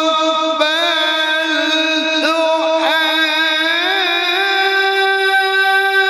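A man's voice reciting the Qur'an in melodic tilawah style, drawing out one long vowel with quick ornamental turns, and stepping up in pitch about four seconds in.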